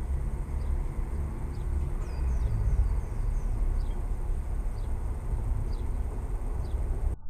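Outdoor ambience: a steady low rumble with a faint high whine over it, and a small bird repeating short, thin, falling chirps about once a second, with a brief flurry of chirps about two to three seconds in.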